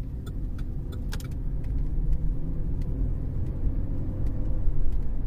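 Cabin noise of a 2013 Cadillac CTS 3.0 RWD on the move: a steady low rumble of tires and drivetrain, getting slightly louder after about a second and a half. Light, evenly spaced ticks sound in the first second or so.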